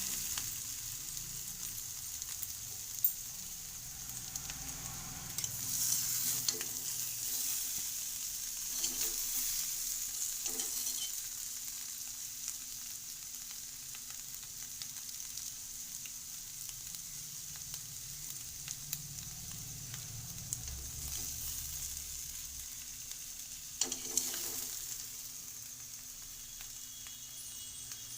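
Spiced potatoes (masala aloo) frying in oil in a pan, with a steady sizzle. A few sharp clicks of stirring come through it, loudest about 3 seconds in and again near 24 seconds.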